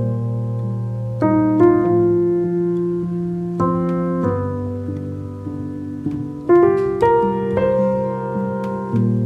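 Slow, gentle piano music: sustained chords struck every second or two and left to ring and fade.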